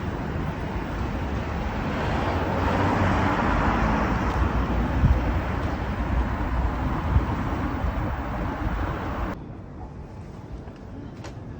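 Road traffic noise with a low wind rumble on the microphone, swelling for a few seconds as if a car passes, then dropping suddenly to a quieter street background about nine seconds in.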